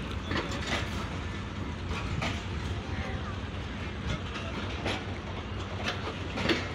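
Pakistan Railways passenger coaches rolling past, steel wheels clacking over the rail joints now and then over a steady low rumble.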